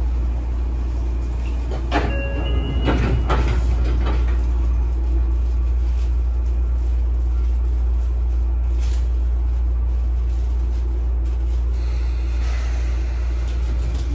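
Sotetsu 9000 series train car standing at a station, with a steady low hum from its equipment. About two seconds in comes a short run of knocks and clicks with brief high beeping tones, typical of the passenger doors chiming and sliding shut.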